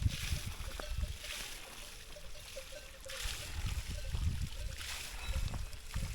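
Hiker's footsteps crunching on a gravel mountain trail, about one step a second, each with a dull thud.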